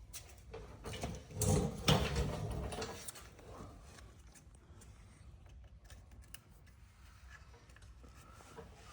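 Clanks and rattles of tools and metal parts being handled, loudest from about one and a half to three seconds in, then only faint background.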